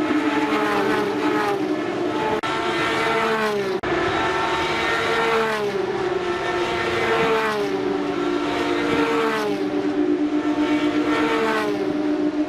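Several Porsche GT3 Cup race cars with 3.8-litre naturally aspirated flat-six engines running at high revs one after another, each engine note falling in pitch every second or two, over a steadier engine tone.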